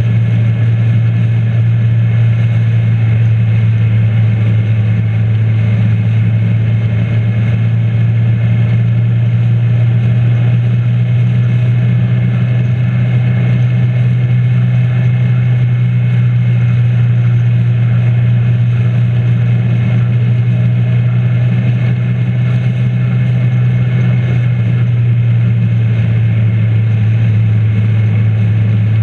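Motorcycle engine running at a steady cruise, a constant low drone that holds the same pitch throughout, under a steady rush of wind.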